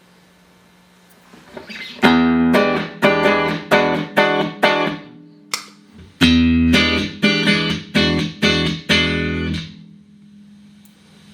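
Clean electric guitar played through a Boss GE-7 equalizer pedal into Roland JC-120 amps: the same short phrase of struck chords is played twice, about two seconds in and again about six seconds in. A low amp hum is heard before, between and after the phrases.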